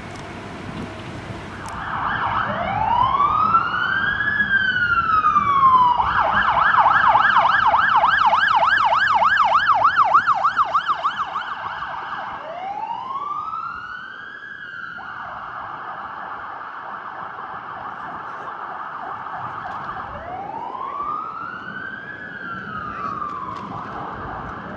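Emergency vehicle's electronic siren switching between a slow rising-and-falling wail and a fast yelp. It is loudest during the yelp, then fades after about eleven seconds as further wails continue more quietly.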